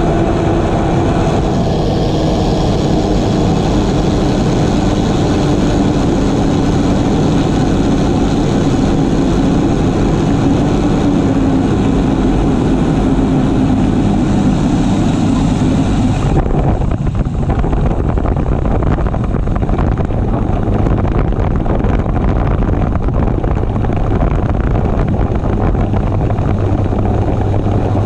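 Small propeller aircraft's engine and airflow droning steadily while it comes in to land. About 16 s in, the high rushing hiss drops away suddenly and a steady low hum remains.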